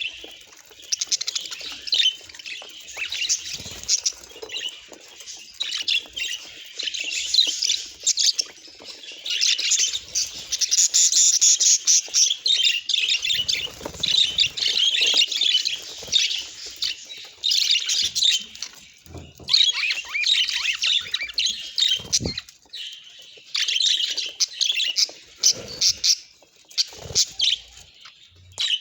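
Budgerigars chattering and warbling in quick, dense chirps, in bursts with short lulls between them.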